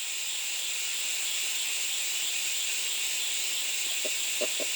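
Steady high hiss of an insect chorus, crickets or cicadas, with a few short soft knocks near the end.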